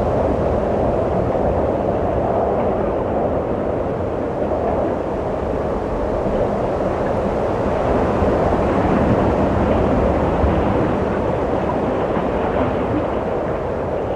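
Steady wind blowing, a low rushing noise that swells and eases slowly, a little stronger around the middle.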